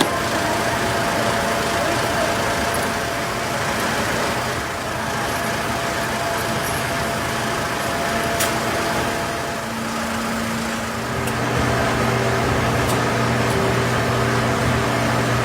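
Workshop machinery running steadily, with a thin high whine in the first half and a deeper motor hum starting about two-thirds of the way in, plus one sharp click.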